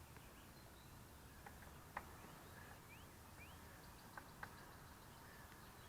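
Near silence: faint outdoor background with a few faint clicks and two brief, faint rising chirps.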